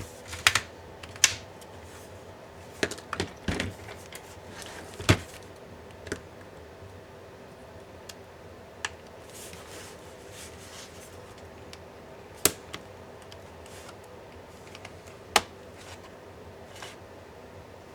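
Sharp clicks and taps of small tools and plastic and metal laptop parts being handled during a laptop teardown. The clicks come in a cluster over the first few seconds, then sparsely every few seconds, over a faint steady hum.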